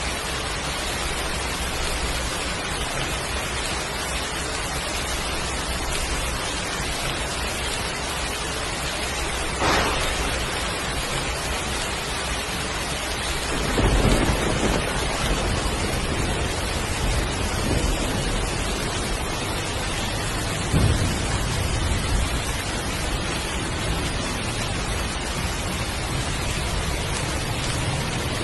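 Heavy rain falling steadily as a constant hiss, with thunder: a sharp crack about ten seconds in, then several low rumbles over the following ten seconds.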